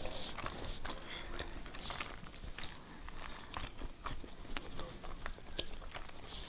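A person chewing food close to the microphone, with small wet mouth clicks and smacks scattered through.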